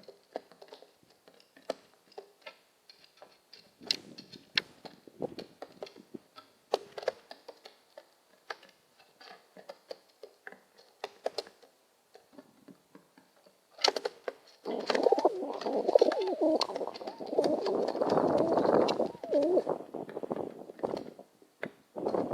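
Pigeon cooing, a loud warbling coo lasting several seconds from about two-thirds of the way in. Before it there is a scatter of short clicks and taps.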